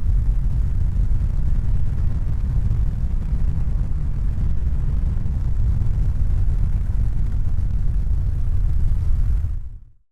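A steady deep rumbling noise with no clear pitch, fading out just before the end.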